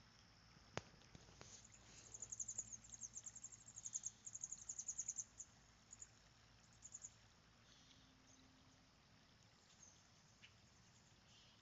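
A faint, rapid trill of very high-pitched chirps lasting about three seconds, with a few stray chirps after it, over a steady high thin tone; a single sharp click comes just before the trill.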